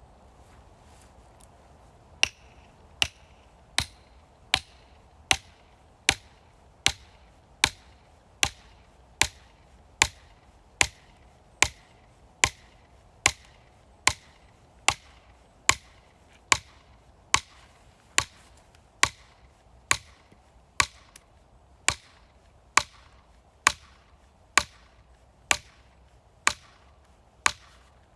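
Chopping wood: sharp, evenly paced blows struck a little more than once a second, each with a brief ring, starting about two seconds in.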